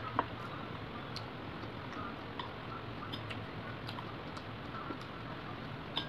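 Quiet eating sounds: soft, scattered clicks and ticks from chewing and from chopsticks touching a plastic sushi tray, roughly one every half second to a second, over a low steady room hum.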